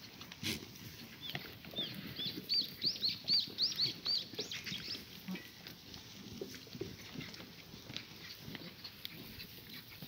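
A bird singing a quick run of short, arched chirps, starting about a second in and stopping about five seconds in.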